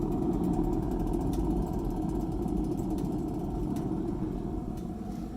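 Gravity-fed wood pellet burner running: a steady rumble from its 12-volt exhaust fan and the pellet fire, with a few faint ticks.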